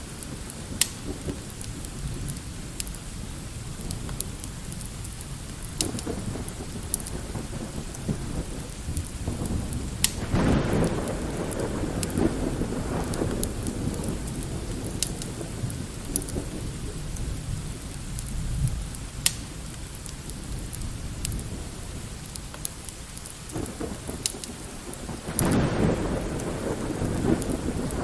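Steady light rain with distant rolling thunder that swells twice, about ten seconds in and again near the end, and scattered sharp crackles throughout.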